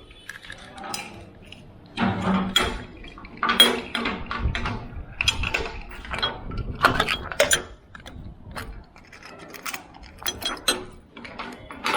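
Keys and a door lock being worked: an irregular string of metallic clicks, clinks and rattles.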